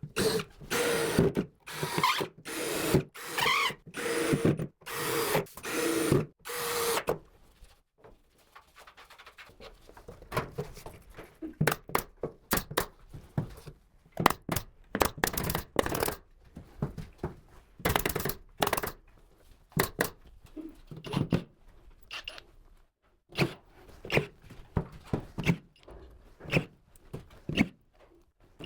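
Carpentry work on wood. About ten rhythmic, evenly spaced strokes come in the first seven seconds, then scattered knocks and clicks.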